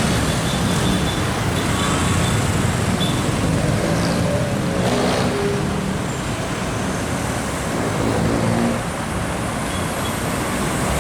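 Road traffic passing steadily, with heavy trucks going by: tyre noise under diesel engine notes that stand out in the middle and again near the end.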